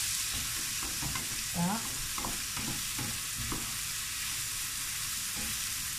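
Diced zucchini and onion sizzling in hot vegetable oil in a frying pan, stirred with a wooden spatula that knocks and scrapes against the pan now and then over a steady hiss.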